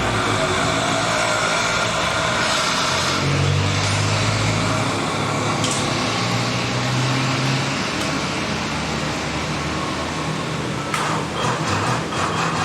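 A motor vehicle engine running, its low pitch shifting a little midway, under a dense steady noise.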